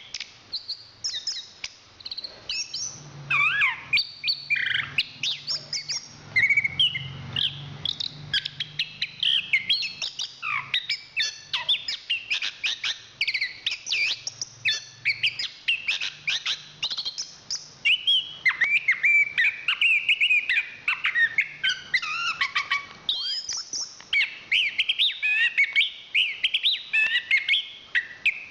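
Chestnut-capped thrush (anis kembang) singing continuously: a fast, unbroken stream of varied whistled notes, trills and quick up-and-down sweeps, with a faint low hum behind it for most of the time.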